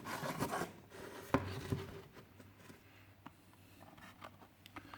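Packaging of a 1:64 diecast car being handled: scratchy rubbing and rustling for the first couple of seconds, a sharp click about a second and a half in, then only faint ticks.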